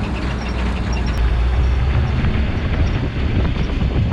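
Toyota Land Cruiser FJ45 ute's engine running as it drives slowly, getting louder about a second in.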